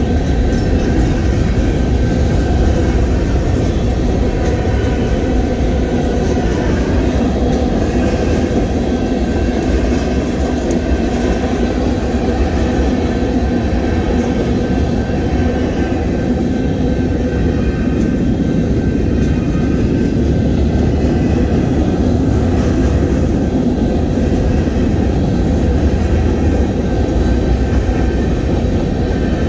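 Union Pacific freight train of tank cars and covered hoppers rolling steadily past, a continuous loud noise of steel wheels running on the rails.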